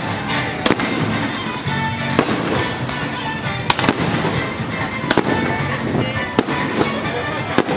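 Aerial fireworks shells bursting close overhead: a sharp bang about every second and a half, with crackling between the bangs.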